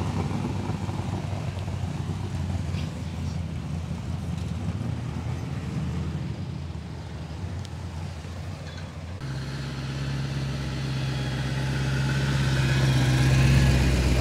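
Car engines running as cars drive slowly past. About nine seconds in the sound switches abruptly to a different engine with a steady low note, which grows louder toward the end.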